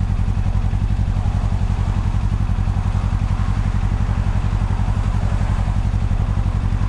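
Motorcycle engine idling steadily with an even low chug, no revving.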